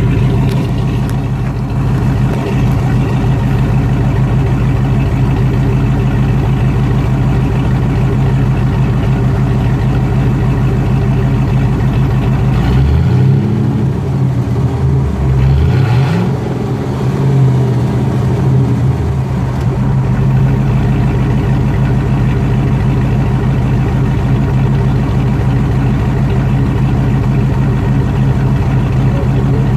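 Modified Dodge 5.2 Magnum V8 idling through a Flowmaster Hush Power 2 Shorty muffler, with two quick throttle blips, rising and falling, about halfway through.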